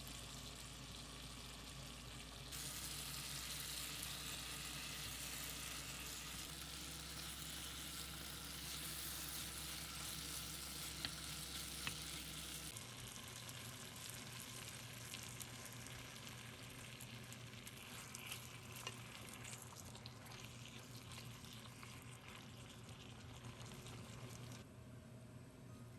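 Food sizzling and frying in a pan, a steady hiss with a few sharp clicks of a utensil stirring it. The sound shifts abruptly several times, at cuts between short clips.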